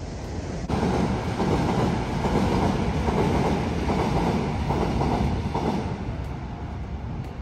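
A train passing on the railway: a steady rumble that starts abruptly under a second in, pulses through the middle, and eases off near the end.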